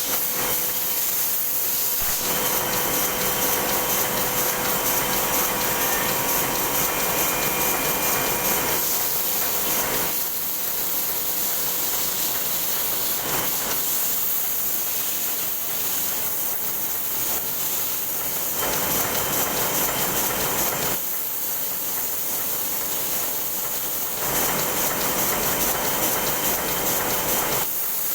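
Heidelberg Speedmaster SM 52 four-colour sheetfed offset press running at production speed, printing invitations: a steady, fast mechanical hiss and clatter with a faint steady hum.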